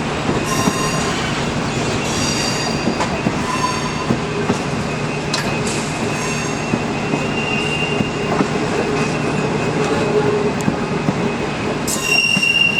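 The Overland passenger train rolling slowly out of the station, its steel wheels clattering on the rails. High-pitched wheel squeals come several times, with a longer, louder squeal near the end.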